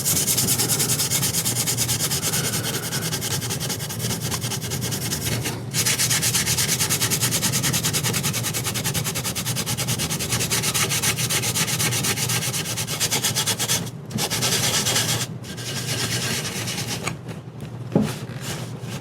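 Rapid, steady scrubbing on the wooden chair to clear old oil, wax and dirt, with two short pauses about six and fourteen seconds in.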